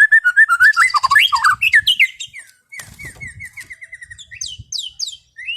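White-rumped shama (murai batu) singing clear, varied song: a fast warbled phrase, then a quick run of repeated identical notes, then several high whistles sweeping downward near the end.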